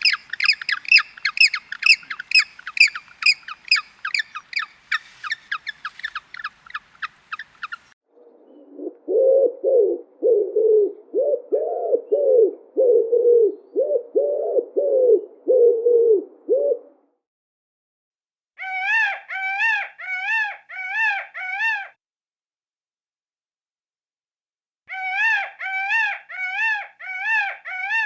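Bird calls in three kinds: a fast run of high chirps, then lower repeated calls about twice a second, then two short bouts of quick rise-and-fall calls.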